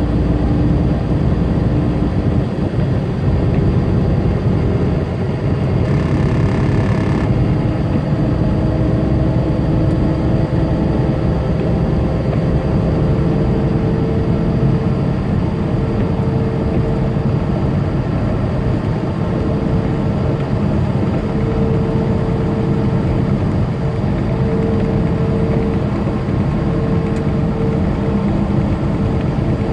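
Inside a tractor-trailer's cab: a steady drone of the diesel engine and road noise, with the engine note shifting slightly. A short higher-pitched sound is heard about six seconds in.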